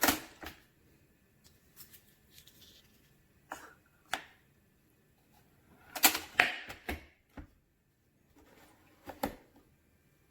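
Scattered hard clicks and clunks of objects being handled: single knocks about three and a half and four seconds in, a louder clattering cluster around six to seven seconds, and a couple more near the end.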